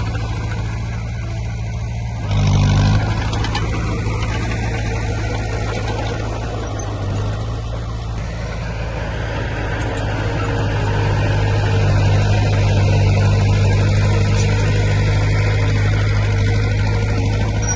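Heavy diesel engine of earthmoving machinery running steadily with a low hum. There is a short louder burst about two and a half seconds in, and the engine grows louder from about ten seconds in.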